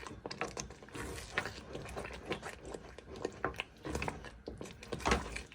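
A spoon stirring a thick chicken and mushroom sauce in a pan: irregular clicks and scrapes of the spoon against the pan, with a couple of louder knocks about four and five seconds in.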